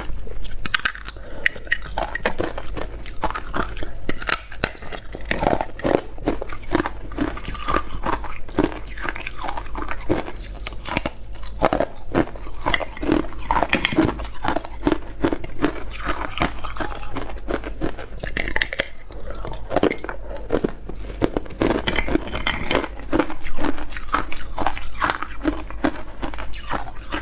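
A person biting and chewing hard clear ice: a quick, continuous run of crunches and cracks.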